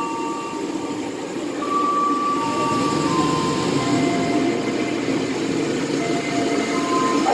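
KRL Commuterline electric commuter train pulling into the platform: a steady rolling noise of the cars on the rails, growing louder about a second and a half in, with thin steady whines coming and going above it.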